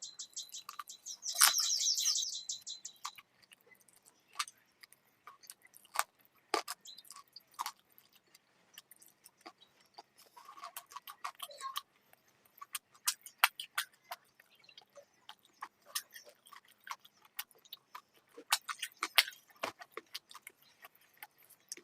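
Close-miked chewing and mouth clicks of someone eating chicken curry and rice, irregular short wet clicks scattered throughout. A brief high, fast trill sounds in the first few seconds.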